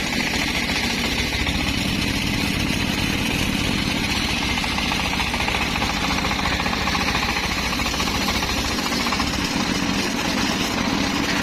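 Homemade circular sawmill running steadily, a machine drone with a fast, even pulse throughout.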